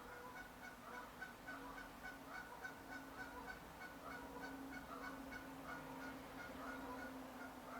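Birds calling with short repeated notes, about three a second, faint, over a low steady hum.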